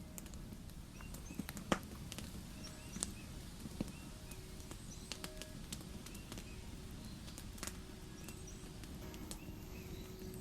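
Campfire crackling with irregular sharp pops, the loudest about two seconds in, over a low steady rumble; a small bird chirps repeatedly in the background.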